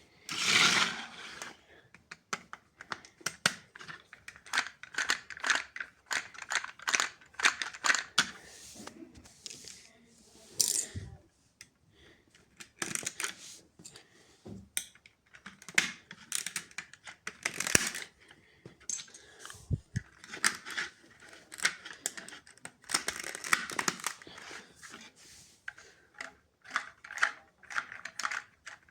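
Irregular clicks, taps and rustling of LEGO plastic pieces being handled, in uneven clusters rather than a steady machine rhythm.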